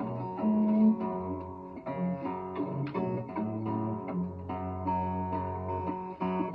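Instrumental blues passage: acoustic guitar picking over long, held low notes.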